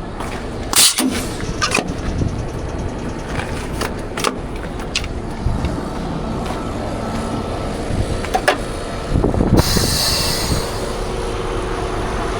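Scania R500 truck running with a steady low rumble, with scattered clicks and knocks, and a short burst of hiss a little under ten seconds in.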